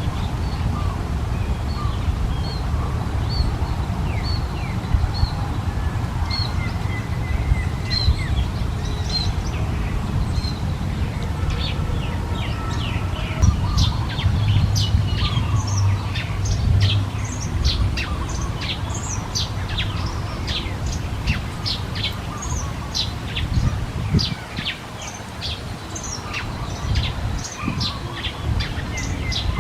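Small birds chirping. At first there is a run of short high notes, about two a second; from about halfway a busy stream of quick falling chirps from several birds takes over, with a steady low rumble underneath.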